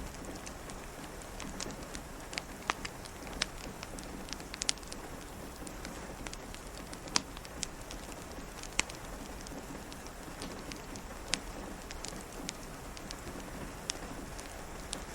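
Steady rain hiss with a crackling wood fire: sharp, irregular pops scattered about once a second over the even patter.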